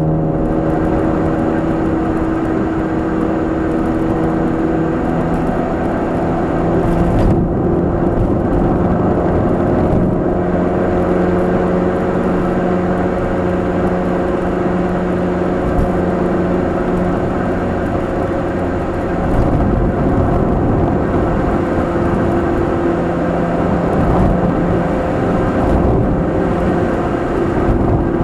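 Onboard sound of a Nissan K12 March 12SR's 1.2-litre four-cylinder engine breathing through a Kakimoto aftermarket exhaust (NCP360 centre pipe, GTbox 02 edi. rear muffler), cruising under steady throttle over road noise. The engine note holds nearly level, drifting slightly in pitch.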